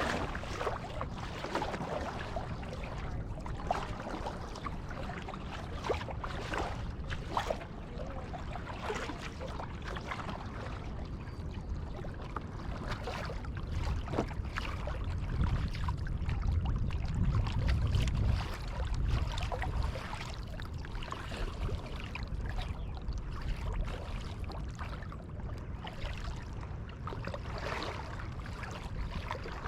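Kayak paddling: irregular splashes of the paddle blades in the water and water trickling and dripping off them. A low rumble swells for a few seconds around the middle.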